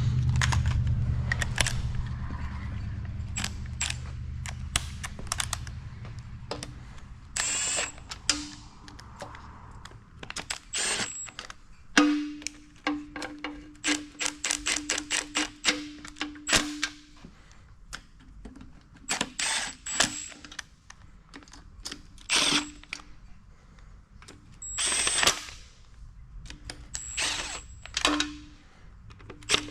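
Hand tools working on an engine: runs of quick ratchet-wrench clicks and metal clanks, with several short bursts of a power driver. A low rumble fades away over the first few seconds.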